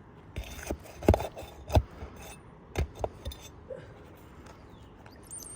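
Metal roofing tool working nails out from under asphalt shingles: a series of sharp metallic knocks and clinks with light scraping, the loudest two about a second apart, then a brief high squeak near the end.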